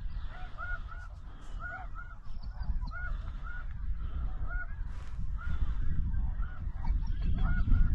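Snow geese calling: short, high, yelping honks repeated two or three times a second over a steady low rumble.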